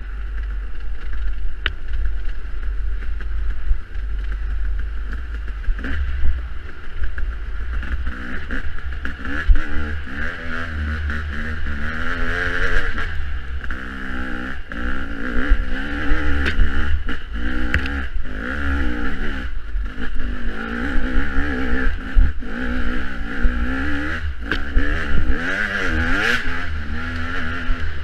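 Dirt bike engine being ridden hard over rough off-road ground, revving up and down again and again as the throttle is worked. Heavy wind rumble on the microphone and scattered knocks and clatter come from the bumps.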